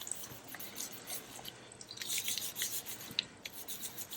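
Paper and fabric pieces rustling and rubbing with small ticks, as they are handled and pressed down onto a journal page, busier in the second half.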